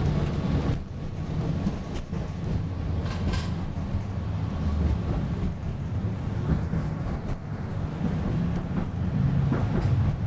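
Cabin noise inside a PESA Fokstrot low-floor tram: a steady low rumble with a few faint knocks and clicks.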